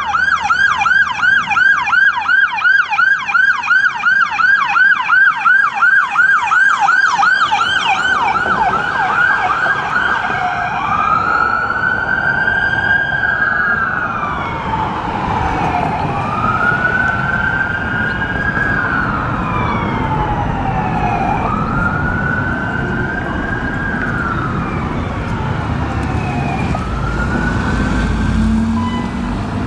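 Electronic emergency-vehicle siren on a responding EMS district chief's vehicle: a rapid yelp of about four warbles a second that switches about eight seconds in to a slow wail rising and falling roughly every four seconds. Vehicle rumble grows louder near the end.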